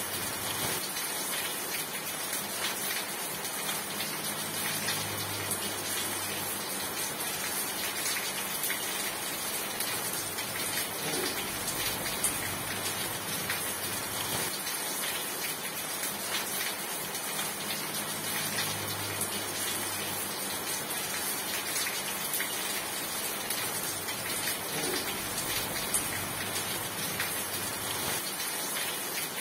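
Steady rain falling, a dense even patter of drops on surfaces, with a faint low hum coming and going underneath.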